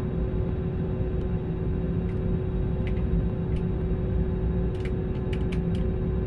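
Airliner cabin noise in flight: a steady, even rumble of engines and airflow with a constant hum running through it. A few faint clicks come through in the second half.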